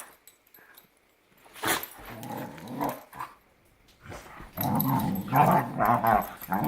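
Dogs growling and snarling as they play-fight. A short bout comes about two seconds in, then a longer, louder one from about halfway through.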